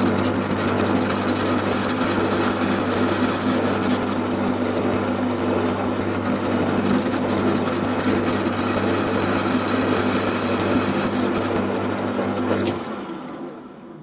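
Metal lathe running steadily, its motor humming under the hiss of a facing cut across a cast-iron collar casting held in a 4-jaw chuck. The casting is cleaning up well, and near the end the sound dies away.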